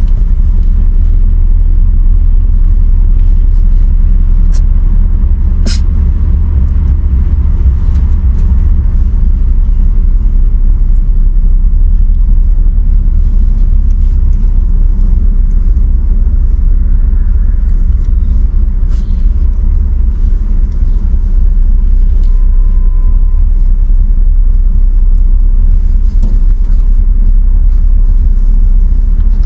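A loud, steady low rumble with a few faint clicks.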